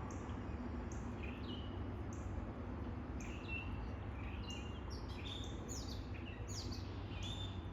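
Birds chirping outdoors: short, high, downward-sweeping chirps come about one or two a second at first, then crowd closer and overlap from about five seconds in. A steady low rumble of background noise runs underneath.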